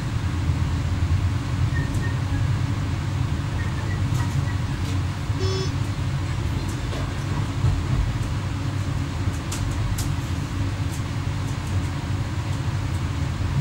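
X11 electric multiple unit running along the line, heard from the driver's cab: a steady low rumble of traction motors and wheels on rail, with scattered clicks. A brief pulsed tone sounds about five and a half seconds in.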